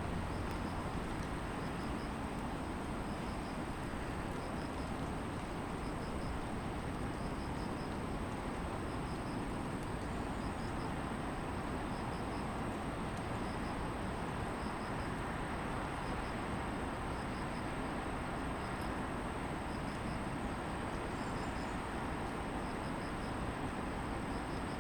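Steady distant city traffic hum under grass insects: a continuous high insect trill and a regular insect chirp about every two-thirds of a second. A few brief high bird calls come in, once near the middle and again near the end.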